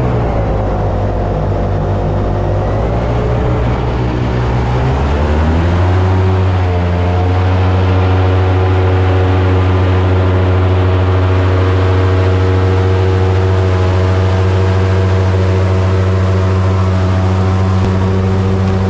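Boat's engine running loudly, its pitch shifting up and down for the first few seconds, then settling to a steady drone from about six seconds in.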